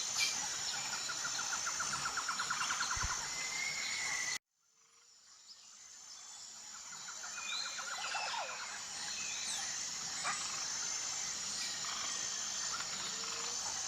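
Tropical forest ambience: a steady high buzz of insects with scattered bird calls and a fast trill. About four seconds in the sound cuts out suddenly, then fades back in over a few seconds to the same mix of insects and birds.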